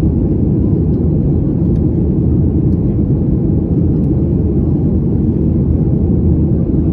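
Steady low rumble of a Ryanair Boeing 737's engines and airflow heard from inside the passenger cabin, holding an even level without change.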